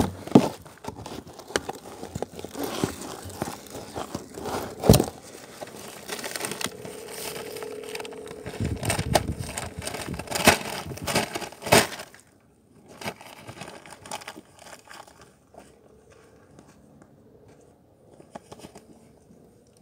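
Close handling noise of the recording tablet: crinkling, rustling and several sharp knocks as protective mats are set around it, turning much quieter after about twelve seconds.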